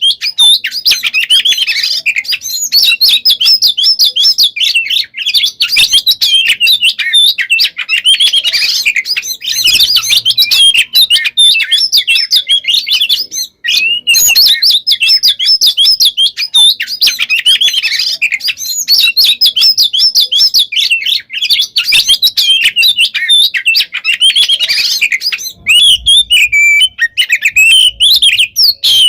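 Oriental magpie-robin (kacer) singing an unbroken stream of fast chattering, twittering and trilling notes, full of fill-in phrases, in the dense nonstop 'gacor konslet' style. There is one brief break about halfway, and the notes come slower and more spaced near the end.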